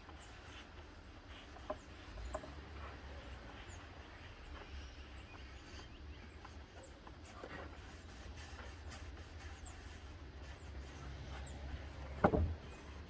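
Quiet outdoor background with a steady low rumble and faint short bird chirps, a few light clicks, and one louder knock about 12 seconds in.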